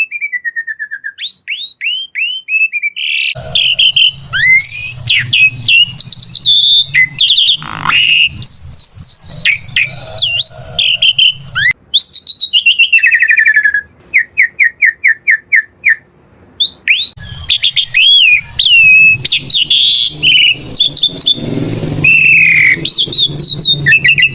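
Asian pied starling (jalak suren) singing a long, varied song of whistles, slurred notes and harsh chatter, with fast runs of repeated short notes at the start and about halfway through.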